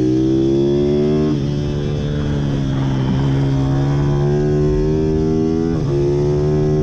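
Pit bike engine running hard, its pitch climbing steadily and dipping sharply twice, once about a second and a half in and again near the end.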